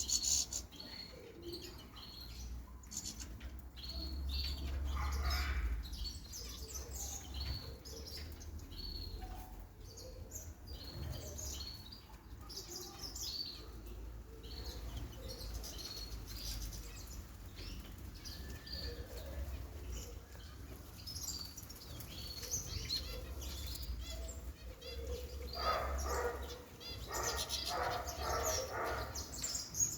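Small pet birds bathing: repeated wing flutters, with many short high chirps throughout.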